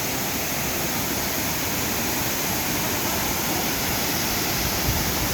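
Waterfall cascading steadily into a pool, a constant rushing of water.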